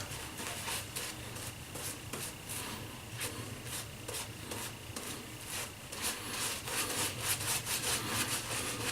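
Shaving brush swished back and forth over a bearded face, working a heavy soap lather in rapid repeated strokes that grow a little louder in the second half.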